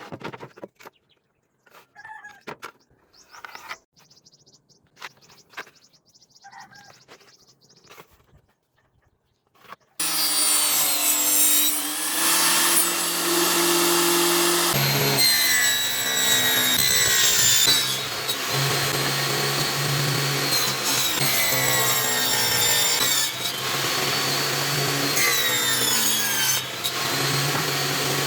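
Scattered light clicks and knocks for about ten seconds, then a woodworking power tool starts cutting solid wood and runs loudly and continuously to the end, its pitch shifting up and down as the cut loads it.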